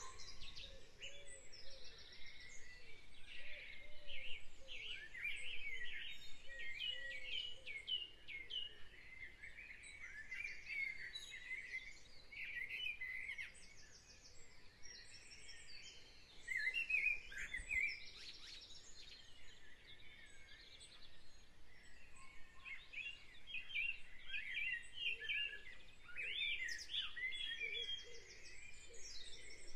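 Several birds chirping and trilling together, with quick high trills and some lower warbling notes underneath.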